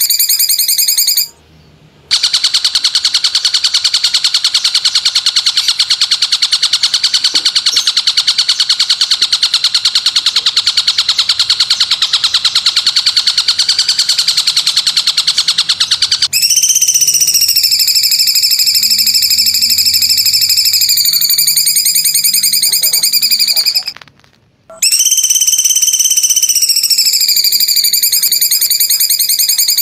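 Songbird song on a looped masteran recording: a fast, high trill of rapid repeated notes lasting about fourteen seconds, then a run of high whistled notes that waver in pitch. The song breaks off briefly twice, about a second and a half in and near the end.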